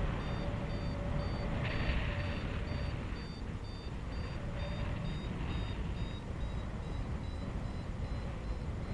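Paragliding variometer beeping, about two short high beeps a second, its pitch slowly rising: the climb tone of a glider going up in a thermal. Wind rushes over the microphone underneath.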